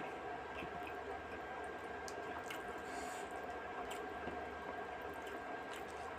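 Wet squishing and smacking of someone eating rice with fish curry, chewing and working the food, with scattered short soft clicks over a steady background hum.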